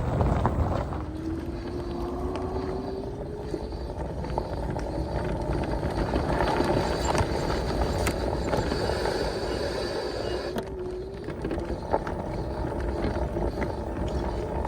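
Electric motorcycle under way: a thin motor whine rises in pitch over the first few seconds, drops about ten seconds in, then climbs again, over steady wind and road rumble.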